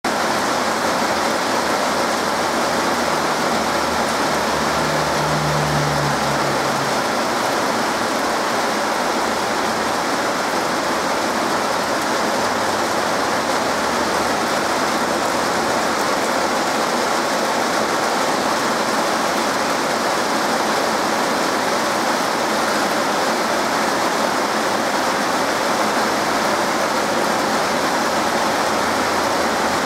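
Heavy rain falling steadily in a downpour, an even hiss that does not let up.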